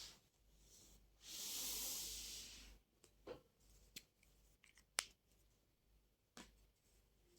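Small handling noises: a soft rustle lasting about a second and a half, then several light, sharp clicks and taps spaced about a second apart, the loudest near the middle.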